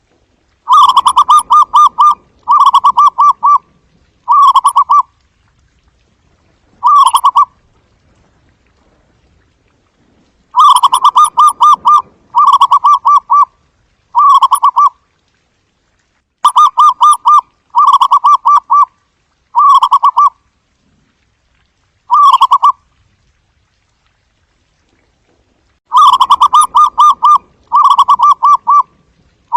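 Zebra dove calling: loud phrases of rapid staccato cooing notes, each about a second long, given in runs of three or four with pauses of a few seconds between runs.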